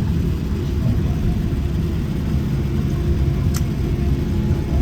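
Low, steady rumble inside a Boeing 787's cabin as the airliner rolls on the ground after landing. A single brief click sounds a little over three and a half seconds in.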